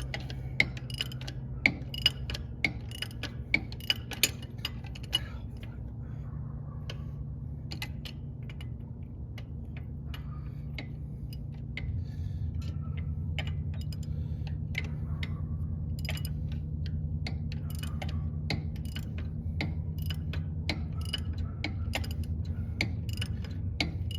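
Metal clicks of a ratchet wrench being worked on nuts: quick strokes for the first few seconds, then scattered clicks. A steady low hum runs underneath and grows a little louder about halfway through.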